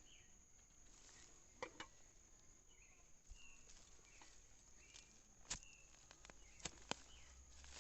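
Faint footsteps through the undergrowth, with a handful of sharp clicks and a few short, high chirps.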